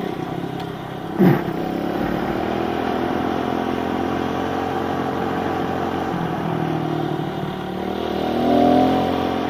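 Kawasaki KLX110 pit bike's small single-cylinder engine running under way at a steady speed, with a short loud knock about a second in; near the end the throttle opens and the engine revs up and gets louder. The sound is muffled by the camera's waterproof case.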